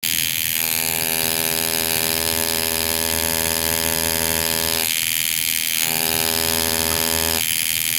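Tattoo machine running with a steady electric buzz. Its tone shifts briefly about five seconds in and again shortly before the end.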